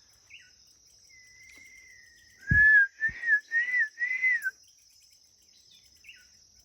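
A person whistling: a faint thin note, then four loud short notes that rise and fall, with breath puffs on the microphone at the first ones. A steady high cricket buzz runs underneath.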